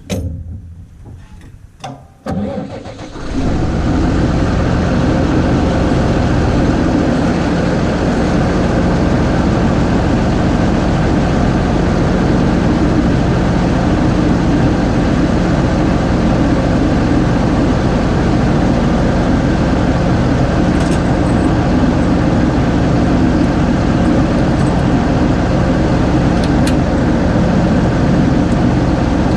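A few metallic clanks, then a New Holland 6080 tractor's diesel engine cranks and catches about three seconds in and runs on steadily at a constant speed.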